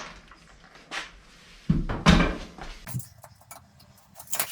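Clunks and clinks of metal tools and parts being handled, with a louder knock about two seconds in and a run of short clicks near the end.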